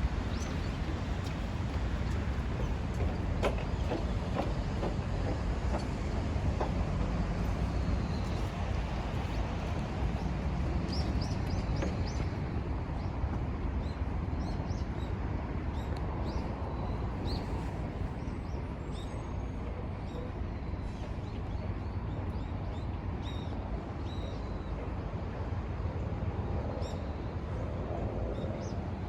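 Steady low rumble of outdoor park ambience, with scattered short, high bird chirps starting about a third of the way in.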